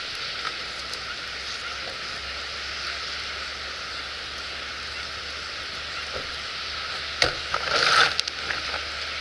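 Wood fire burning in a fire pit: a steady hiss, then a sharp pop about seven seconds in followed by a short burst of crackling.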